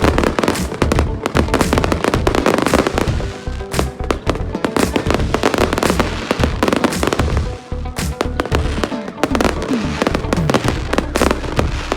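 Fireworks display: rapid, dense bangs and crackles going off one after another, with music playing along with them.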